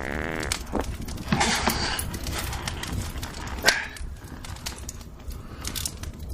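Wood fire crackling, with irregular sharp pops and one louder snap a little before the four-second mark, plus a brief pitched sound at the start and a short rustle about a second and a half in.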